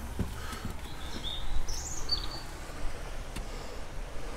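Small birds giving short, high chirps at scattered moments, over a steady low background rumble.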